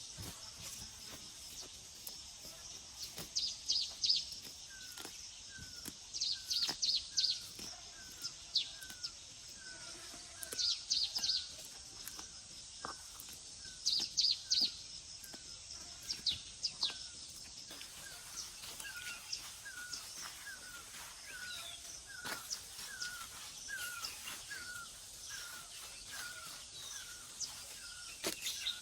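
Birds calling outdoors: bursts of quick, high, falling notes every few seconds, mostly in the first half. From about five seconds in, a steady run of short chirps repeats a little under twice a second.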